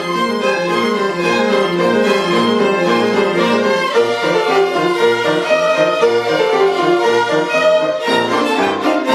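An ensemble of violins playing a piece together, a quick run of short notes.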